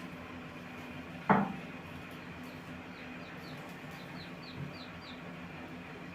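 A single sharp knock about a second in, then a quick series of faint, short, high chirps, over a steady low hum.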